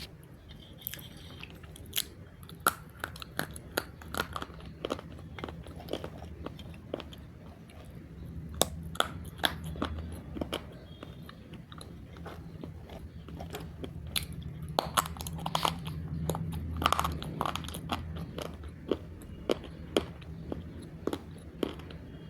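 Close-up crunching of roasted multani mitti (Fuller's earth clay) being bitten and chewed: many sharp, irregular crunches that come in clusters.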